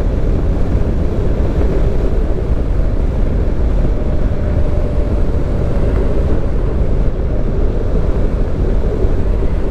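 Motorcycle riding at road speed: wind rushing over the microphone, with the engine running steadily underneath.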